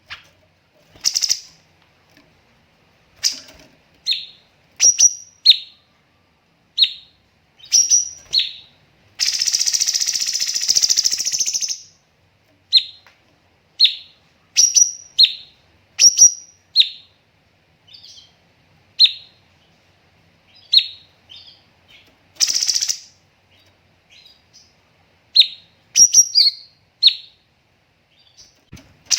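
Cucak cungkok singing: short, sharp, high whistled notes with pauses between them, broken by a fast buzzing run of about three seconds about a third of the way in and a short one about two-thirds of the way in.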